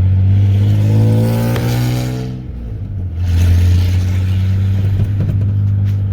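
The straight-piped exhaust of a 1995 Ford F-150's 4.9-litre (300 cu in) inline-six, with no muffler and 2.5-inch pipe. It pulls under acceleration with its pitch climbing, eases off briefly about two and a half seconds in, then comes back on hard. Heard from inside the cab.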